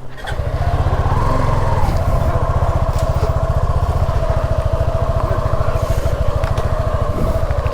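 Motorcycle engine running at a steady idle, with a fast, even exhaust pulse.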